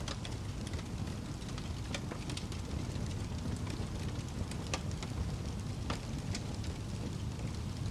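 Wood fire burning in a fireplace, with a steady low rumble of the flames and irregular sharp crackles and pops of the burning logs.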